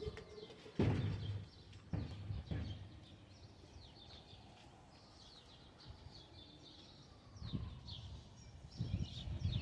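Birds chirping in short repeated calls, with a few dull thumps in the first three seconds and more low thuds near the end.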